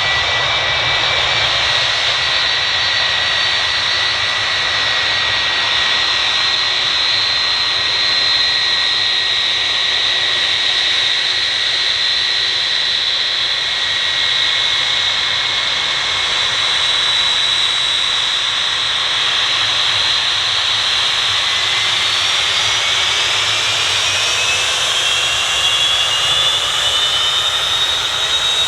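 Boeing 757-300 jet engines running with a steady roar and a high whine; in the last several seconds the engine tones rise in pitch as the engines spool up.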